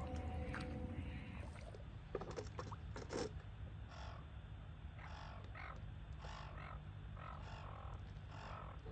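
Seagulls squawking: a run of about eight short, harsh calls in quick succession over the second half, over a steady low rumble, with a few sharp clicks a couple of seconds in.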